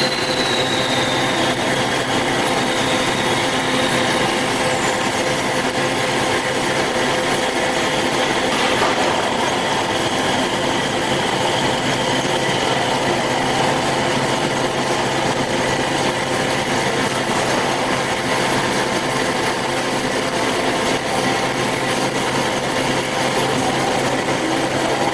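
Band saw running steadily through a cut, a continuous machine noise with a steady hum of several fixed tones.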